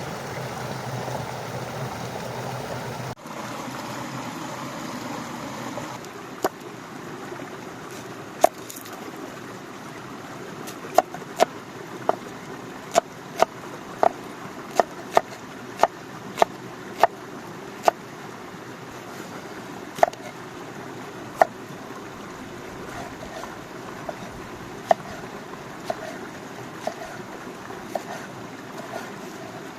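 Steady rush of flowing water with a run of sharp knocks, a few scattered at first, then about one every 0.6 s for several seconds, then lighter and sparser taps near the end.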